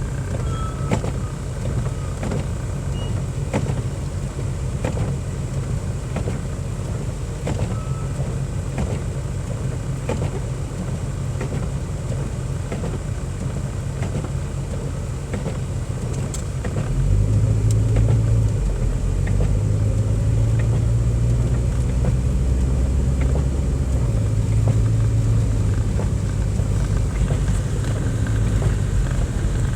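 Car driving on snowy roads, heard from inside the cabin: a steady low rumble of engine and tyres with faint ticks. The rumble gets louder a little over halfway through.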